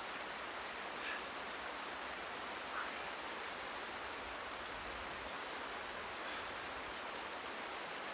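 Steady rush of a flowing river, with a few faint brief rustles.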